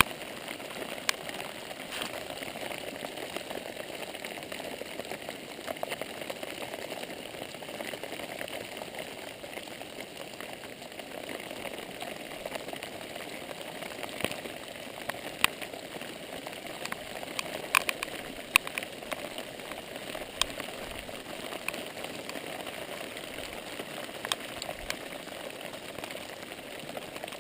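Steady rain pattering on the water and the canoe, with scattered sharp ticks of single drops.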